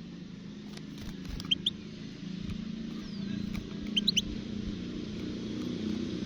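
European goldfinch giving a few short, high chirps: a pair about a second and a half in and a quick cluster about four seconds in. A steady low hum runs underneath and grows a little louder partway through.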